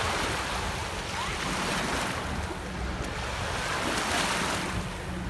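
Lake water splashing in surges about every two seconds, with wind rumbling on the microphone.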